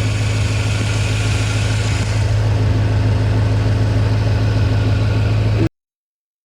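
Twin-turbo Ford Mustang Boss 302 V8 idling steadily with an even low pulse. The sound cuts off abruptly near the end.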